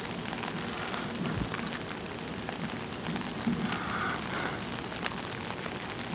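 Steady rain falling during a thunderstorm, an even hiss with many single drops ticking close by.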